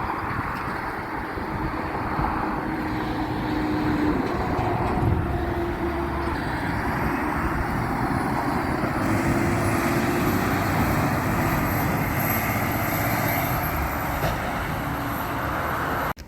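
Garbage truck running, a steady loud engine noise with faint whining tones that shift slowly in pitch; it cuts off suddenly near the end.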